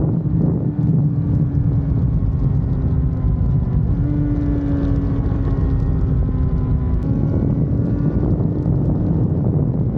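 Honda CBR650R's inline-four engine running through a Mivv GP Pro exhaust under way, its note holding fairly steady with small shifts in pitch about four and seven seconds in, under heavy wind noise on the microphone.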